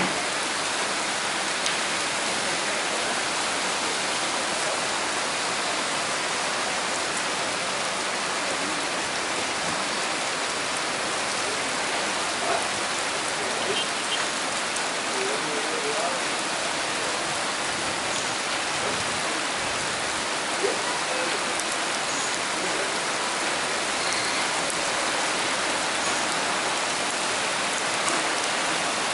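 Heavy downpour: a steady, even hiss of torrential rain, with a few louder drop hits now and then.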